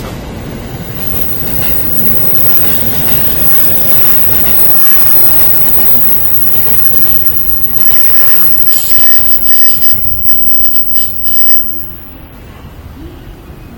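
Sobu Line commuter train running past the platform: loud wheel and rail noise, with high-pitched wheel squeal about eight to eleven seconds in, easing off near the end.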